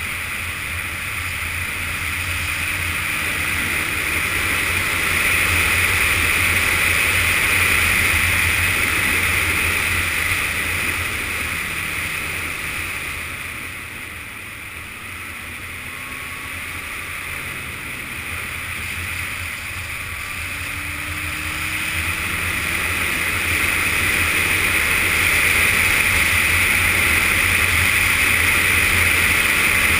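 Wind rush and the Yamaha FZS600 Fazer's inline-four engine while riding, heard on a helmet or bike-mounted action camera. The noise drops about halfway through and builds back up toward the end.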